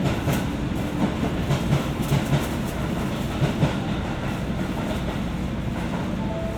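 Rail noise inside a JR West 201 series electric commuter car: a low rumble with irregular wheel clicks over rail joints. The clicks thin out after about four seconds, leaving a steady low hum.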